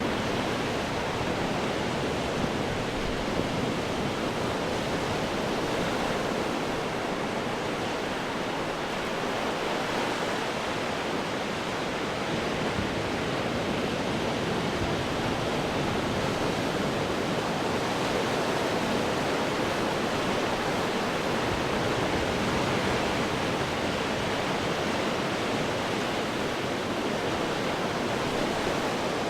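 Ocean surf washing against rocks in a steady, continuous rush of water, rising and falling only slightly.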